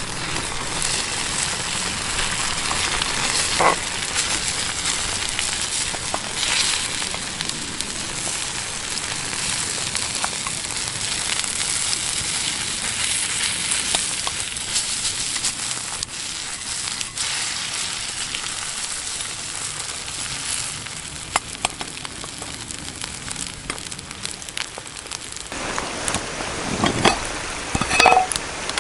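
Food frying in a pan over a campfire: a steady sizzle with scattered crackles and pops. Near the end come a few sharp clinks.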